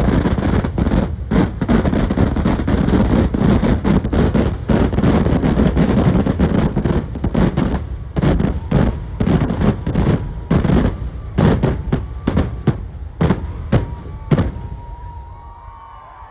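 Festival fireworks finale (Kerala vedikkettu): a dense, continuous barrage of explosions. After about ten seconds it breaks into separate bangs, and it dies away near the end.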